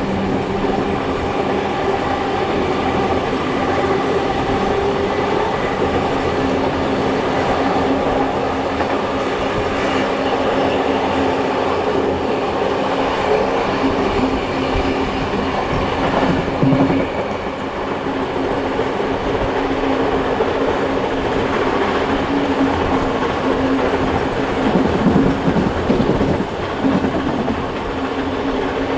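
Heritage passenger train in motion behind steam locomotives: a steady running noise of carriage wheels on the rails, with a few louder moments about halfway through and again near the end.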